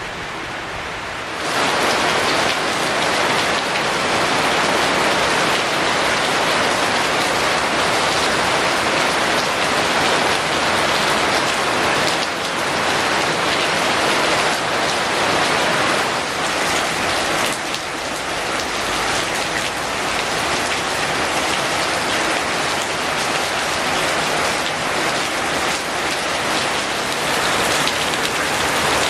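Heavy rain falling steadily, a dense even hiss of drops on surfaces, which turns suddenly louder about a second and a half in.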